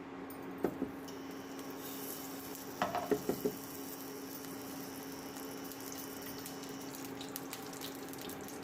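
Water running steadily from a kitchen tap into a sink, with a few light clinks of utensils, the most about three seconds in.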